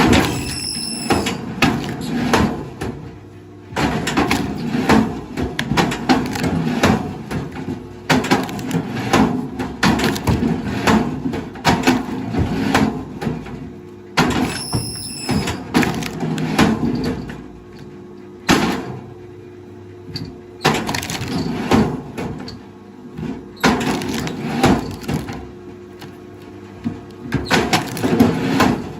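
Wood being handled by a heavy machine: repeated knocks, cracks and splintering over the steady hum of an engine, with two brief high squeaks, one about a second in and one about halfway through.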